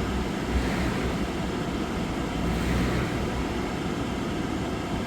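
Steady hum of a vehicle idling, heard from inside the cab, with a low rumble in the first few seconds.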